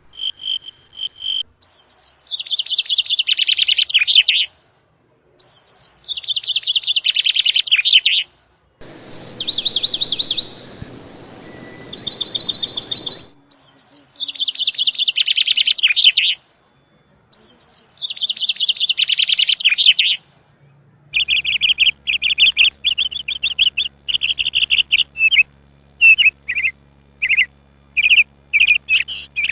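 Bird song: repeated phrases of rapid, trilled chirping, each about two seconds long with short pauses between. About two-thirds of the way in, a steady low hum comes in and the chirps turn shorter and choppier.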